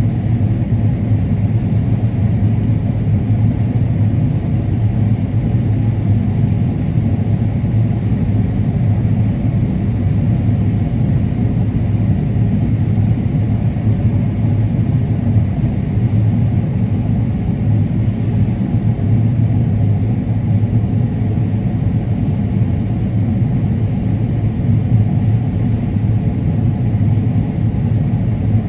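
Combine harvester running steadily while harvesting corn, a constant low drone with no change in speed.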